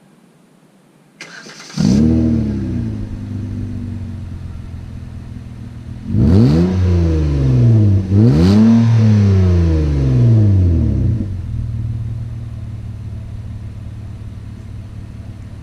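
Hyundai Azera V6 with its rear mufflers removed starting up: a brief crank, then the engine catches with a rev flare and settles to idle. About six seconds in it is revved twice, each rev rising and falling over about two seconds, before it drops back to a steady idle.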